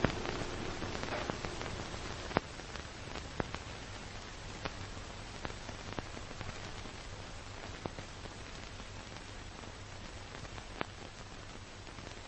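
Steady rushing noise of a car being driven, with a low hum underneath and a dozen or so scattered sharp ticks.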